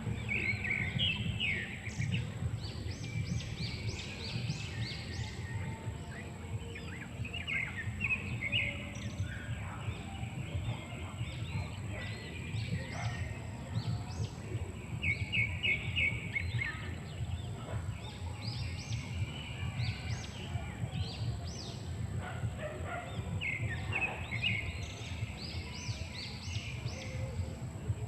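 Birds chirping in short, quick series of high notes that come back every several seconds, over a steady low rumble.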